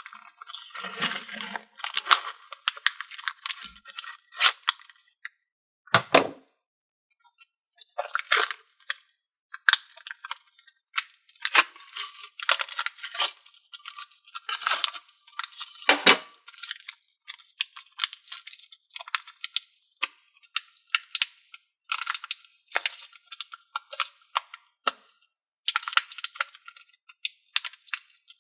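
Plastic packaging crackling, clicking and tearing in irregular bursts as a hard-to-open thinking putty package is pried and pulled open by hand.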